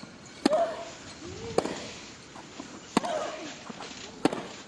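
Tennis rally: four crisp racket strikes on the ball, roughly a second and a quarter apart, with a player's short grunt after each stroke.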